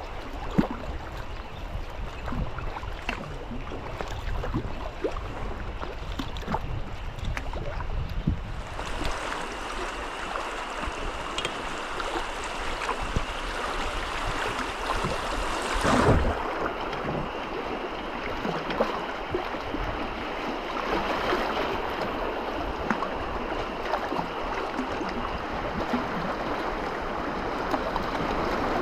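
Flowing river water rushing and splashing around a kayak, with small splashes and knocks throughout. The sound changes abruptly about eight seconds in and again just after a brief thump near the middle.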